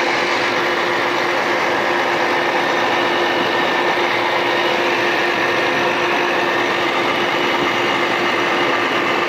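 Supercharged Ford Mustang GT 5.0 V8 with a Corsa exhaust idling steadily, the engine note even and unchanging with no revs.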